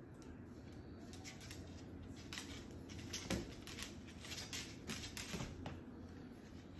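A quick, irregular run of light clicks and rustles, with the sharpest tap a little over three seconds in.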